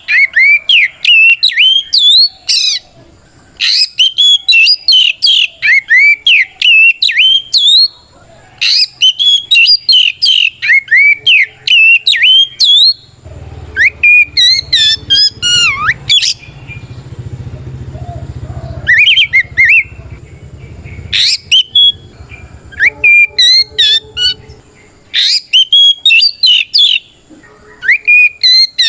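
Oriental magpie-robin singing loudly: rapid runs of varied, sliding whistled notes in bouts of a few seconds, broken by short pauses. This is its full, open song (gacor ngeplong).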